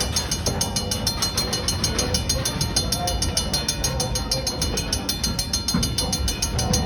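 Steam train, 4-4-0 No. 7 D&LN, running on the rails: a steady rumble with a fast, even pulsing in the hiss.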